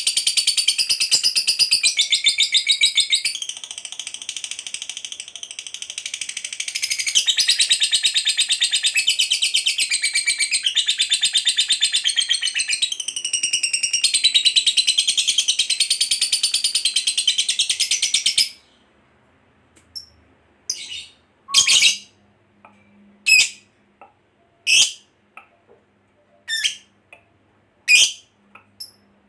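Lovebird's long chattering trill (ngekek panjang): a rapid, high-pitched, unbroken chatter that softens for a few seconds, then stops suddenly about two-thirds of the way through. After that come about a dozen short single chirps, roughly one a second.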